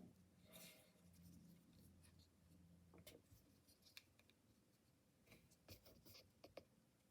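Near silence with faint handling noises: light rustles and a few small clicks and taps, clustered near the middle and again in the second half.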